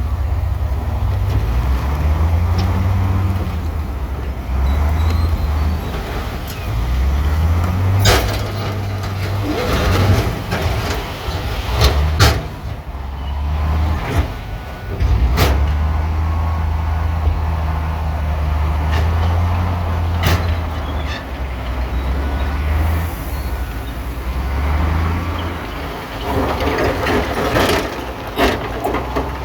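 Heavy diesel engine of earthmoving machinery running, its revs stepping up and down as it works under load. Sharp metallic clanks and knocks come through several times.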